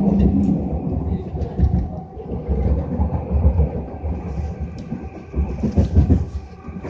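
A SkyTrain car running along the track, heard from inside the car: a steady low rumble with scattered knocks and rattles.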